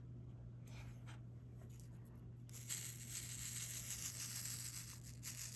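Quiet diamond-painting handling sounds: a few light taps, then a scratchy rustle lasting about two and a half seconds, from a stylus and resin drills being worked on the adhesive canvas. A steady low hum underneath.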